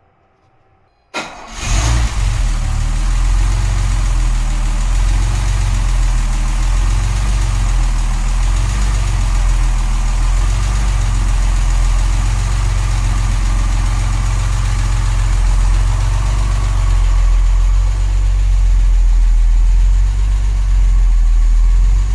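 1966 Mercedes-Benz 230 SL's straight-six engine coming to life about a second in and then idling steadily, just refilled with 20W-50 oil after an oil change. It gets slightly louder near the end.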